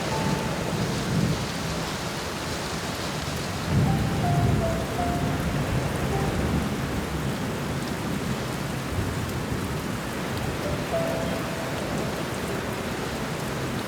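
Steady heavy rain with low rolling thunder that swells about four seconds in, and a few soft, sparse piano notes over it.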